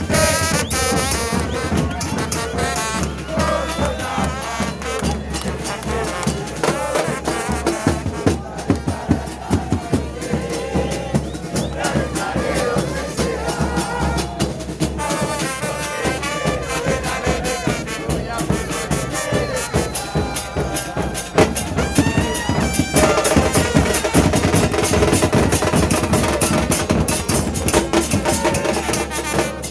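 Football supporters' band of drums and brass playing steadily while the crowd chants along.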